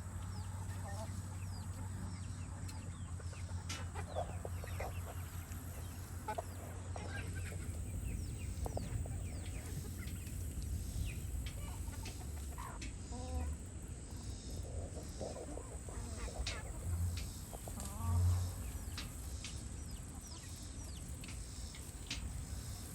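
Backyard hens clucking in short, scattered calls, with one longer pitched call about halfway through. Under them runs a steady high thin tone and a low hum, and a couple of low bumps come near the end.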